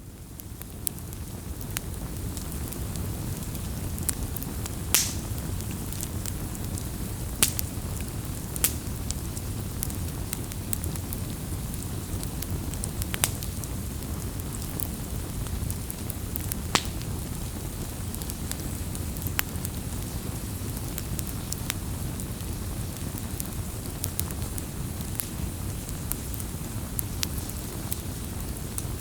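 Campfire burning: a steady low rumble of flames with scattered sharp crackles and pops from the burning wood, fading in over the first couple of seconds.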